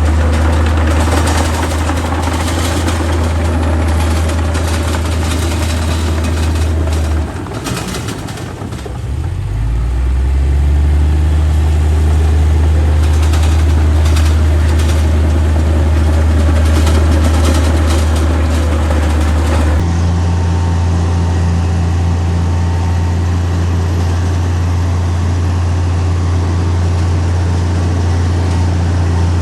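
Heavy diesel engine of earthmoving machinery running with a loud, low drone. It eases off briefly about seven seconds in, then picks up again, and switches abruptly to a steadier drone about twenty seconds in.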